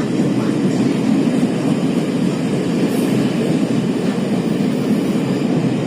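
Passenger train running with a steady low rumble.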